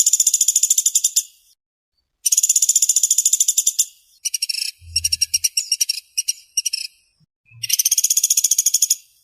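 Small woodpecker (pelatuk sampit / pelatuk beras) giving fast, high rattling trills of tightly packed notes, in four bursts of a second or two each with short pauses between. The third burst, in the middle, is choppier and broken into short runs.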